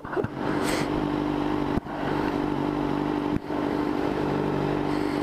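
Motorcycle engine running at a steady pitch, with two brief dips in loudness, about two seconds in and again about three and a half seconds in.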